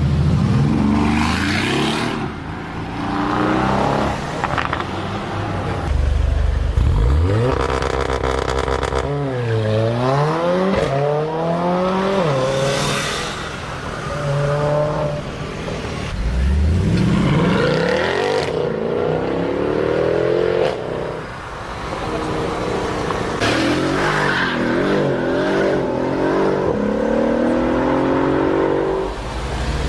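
Mercedes-AMG car engines and exhausts revving and accelerating hard: the pitch climbs, drops back and climbs again many times, in a string of short clips cut one after another.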